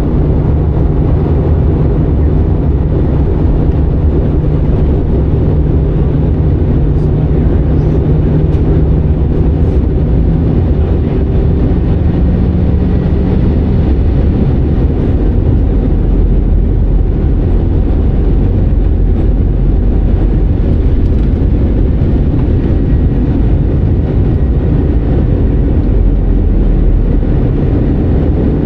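Steady low rumble of an Airbus A319's engines and rushing air, heard from inside the passenger cabin during the approach to landing. A low hum runs under it through the first half.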